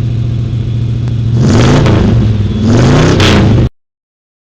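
Car engine revving: a steady run, then two blips of the throttle with the pitch rising, before the sound cuts off abruptly.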